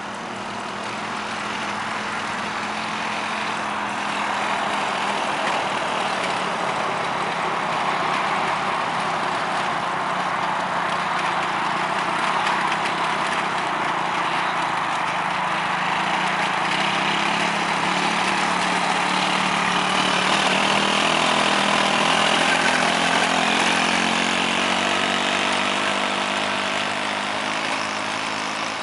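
Quad bike engine running steadily, growing gradually louder over most of the stretch and easing off a little near the end.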